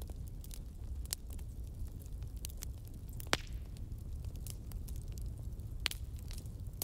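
Fire crackling: scattered sharp pops and snaps, the loudest about halfway through, over a low steady rumble.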